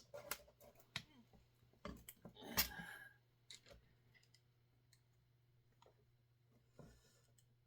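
Faint, scattered clicks and light metal clinks of hand tools being handled while hex keys are tried on the chainsaw's bolts. Most come in the first three seconds and one comes near the end, over a faint steady hum.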